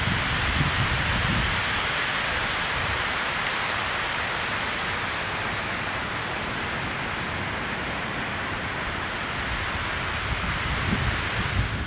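Steady hiss of heavy rain, with a low rumble coming and going underneath.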